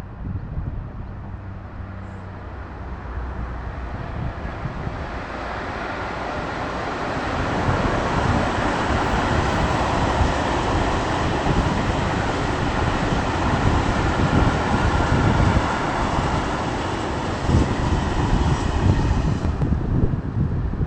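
A train passing close by: a rumble that builds over the first several seconds and then stays loud.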